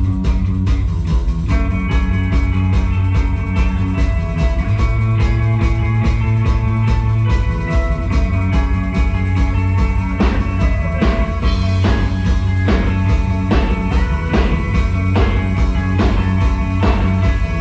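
A rock band playing live: instrumental intro with drum kit, bass and guitar, before the vocals. The drum hits grow denser about ten seconds in.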